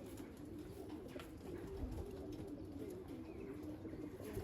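Racing pigeons cooing in the loft: a low, wavering, warbling coo that goes on throughout, with a few faint clicks.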